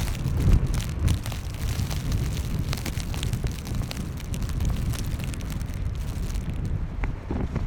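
Blizzard wind buffeting the microphone: a heavy, uneven rumble with crackling clicks throughout. The crackle thins out near the end.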